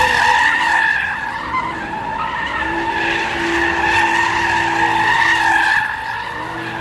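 Car tyres squealing in one long continuous screech with a slightly wavering pitch, the engine running underneath: a car spinning its wheels.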